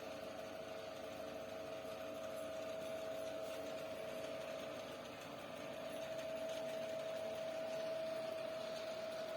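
Faint steady hum with one steady whine in it, like a small machine or fan running in a quiet room.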